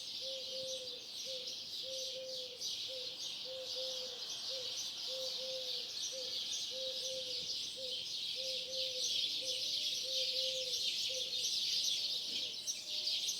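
A large flock of starlings chattering and whistling nonstop at dawn. Underneath, a low call repeats in short groups of notes until about two seconds before the end.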